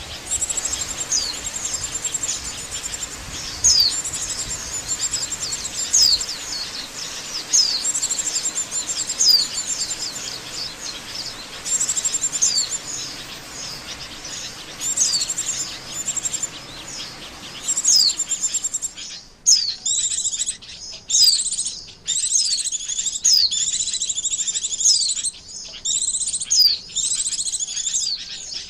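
White-eye (pleci) lure calls: clusters of high, thin chirps, each a quick downward-sweeping note, repeating every second or so. About two-thirds through, a background hiss drops away and the chirp groups come closer together.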